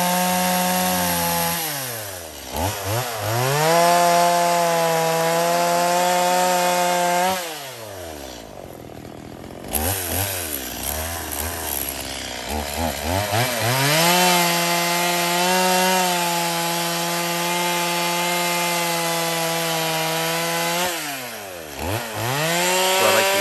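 Two-stroke chainsaw held at full throttle in long cuts of several seconds, its pitch falling back between them, with a short spell at idle about a third of the way in. The short repeated cuts fit trimming knots and stubs flush to a cedar log before the milling ladder goes on.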